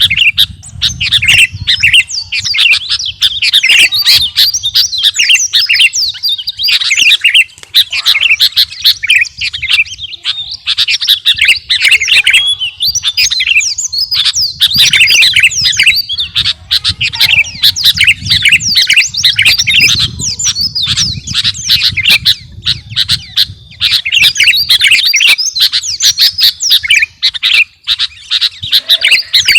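A sooty-headed bulbul (kutilang) singing continuously in a rapid, unbroken stream of chirps, chattering notes and short whistles.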